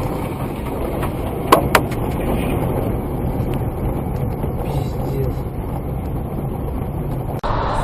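Steady engine and road rumble of a moving car, heard from inside, with two sharp clicks in quick succession about a second and a half in; the sound cuts off abruptly near the end.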